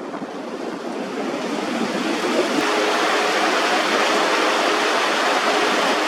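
Steady rushing of water, growing a little louder after the first couple of seconds, with a faint steady hum coming in about two and a half seconds in.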